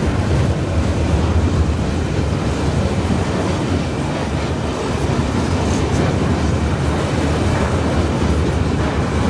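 Long train of coal hopper wagons rolling past: steady rumble and clatter of steel wheels on the rails, with a few brief, faint, high squeals.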